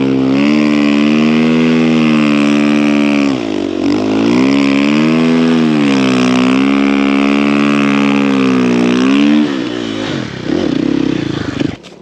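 Snow bike engine running at steady high revs under load, its pitch dipping briefly once and then falling off to a lower, quieter note near the end as the rider backs off the throttle.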